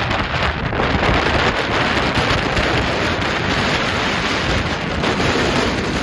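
Strong mountain-top wind buffeting the microphone: a loud, steady rushing with a rumble underneath.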